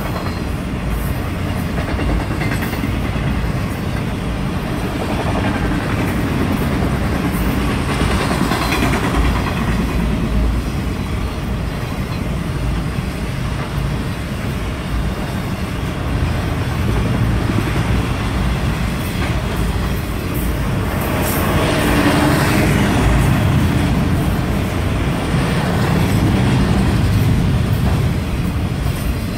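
Freight train of enclosed autorack cars rolling past close by: a steady rumble of steel wheels on the rails with thin clicks, swelling a little twice as the cars go by.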